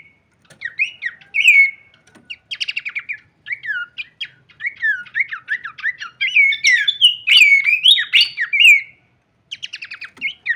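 Pelanduk semak (Horsfield's babbler) singing a varied run of loud whistled phrases that slur up and down. A fast rattling trill comes a few seconds in, a dense burst of song follows in the second half, and after a brief pause another quick trill comes near the end.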